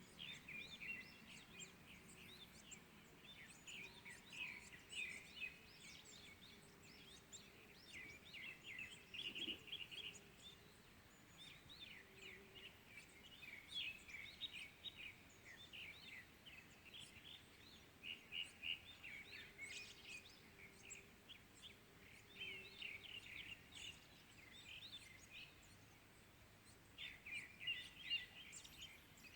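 Small birds chirping and twittering in the early morning, faint, in quick clustered runs of short notes with brief lulls between them.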